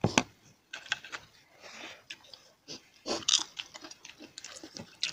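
Eating sounds: wet chewing and mouth smacks of rice and vegetables eaten by hand, with short sharp clicks, the loudest at the start and about three seconds in.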